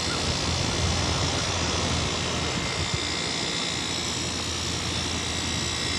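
Central air conditioner outdoor condenser unit running steadily: the fan's rushing air over the low hum of the compressor.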